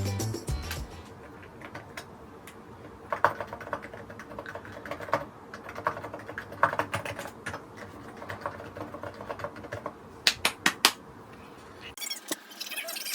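Mechanical keyboard keys clicking: scattered key presses and taps, with a quick run of four sharp clicks near the end. About a second before the end, a brighter, hissy sound cuts in.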